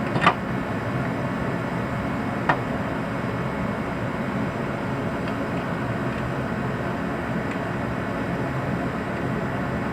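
Steady background machine noise, even and unchanging, with two brief light clicks: one just after the start and one about two and a half seconds in.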